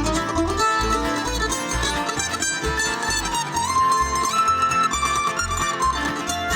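Live acoustic string band playing an instrumental break: plucked string instruments pick the melody over steady bass notes, about two a second.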